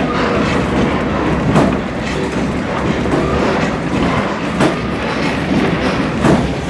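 Railroad passenger coach rolling along the track, heard from on board: a steady rumble with sharp wheel clicks over the rail joints every second or two.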